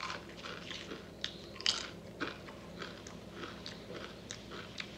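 Crunchy jalapeno potato chips being chewed close to the microphone: a string of irregular, crisp crunches, the sharpest about a second and a half in.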